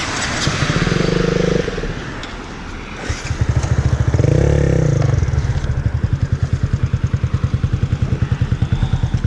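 Motorcycle engine idling with a rapid, even low throb. Louder engine noise swells up twice, about half a second in and again around four seconds in.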